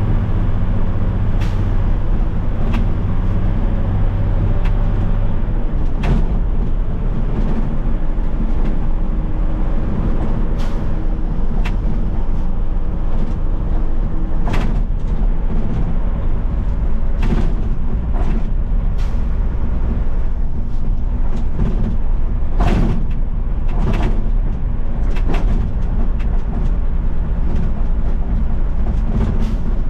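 Garbage truck driving: its engine runs under a steady road drone, and the engine note changes about five seconds in. Sharp clicks and knocks from the rattling truck come through at irregular intervals.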